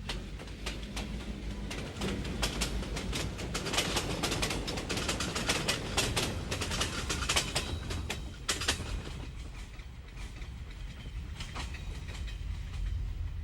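Freight train cars rolling past with a steady low rumble and wheels clicking over the rail joints. The clicking is thickest in the middle and thins out near the end.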